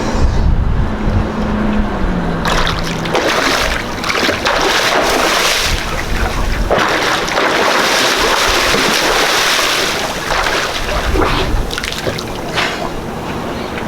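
Water splashing and sloshing with wind buffeting the microphone, loudest through the middle of the stretch.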